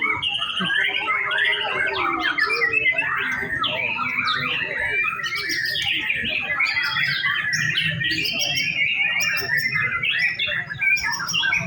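Several caged white-rumped shamas singing at once, rapid varied whistled phrases overlapping continuously.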